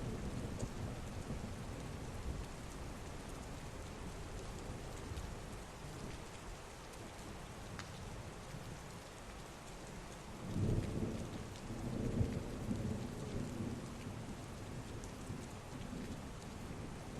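Heavy rain falling steadily, with thunder rumbling low in the background and swelling in two rolls past the middle.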